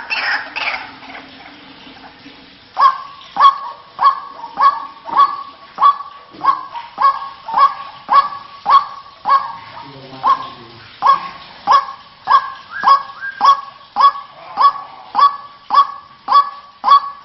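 White-breasted waterhen (ruak-ruak) lure call: a sharp, loud note repeated evenly about every half second, starting roughly three seconds in.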